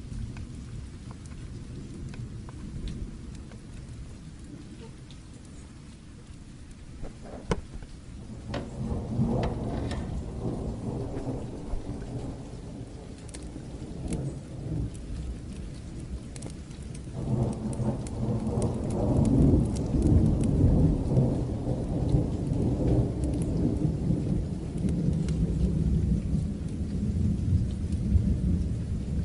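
Steady rain with rolling thunder: a deep rumble swells about eight seconds in, eases, then builds louder from about seventeen seconds on and keeps rolling. Scattered sharp ticks sound over it.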